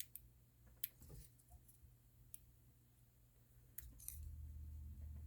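Faint, scattered small clicks and taps from handling tools and parts while fitting a phone screen, about half a dozen in all, with a low hum coming in near the end.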